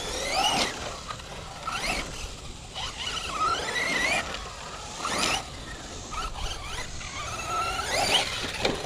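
Electric motor of an RC monster truck whining, its pitch rising and falling with repeated bursts of throttle, several times over.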